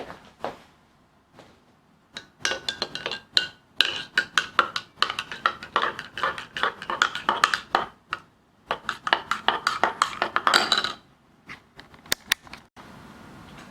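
Kitchenware clinking and knocking in a quick, uneven run of sharp hits with a slight ring, from about two seconds in until near the end, then a few separate clicks.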